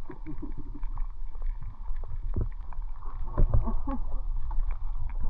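Boat moving on a river: a steady low rumble with water noise, scattered knocks and brief faint voices.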